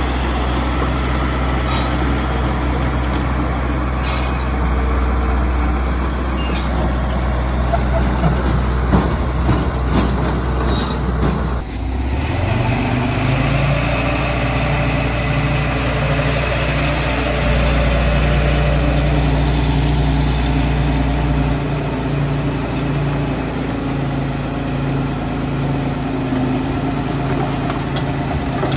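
Heavy diesel earthmoving machinery running steadily, with scattered clanks and knocks in the first half. About twelve seconds in the engine revs up and holds the higher speed.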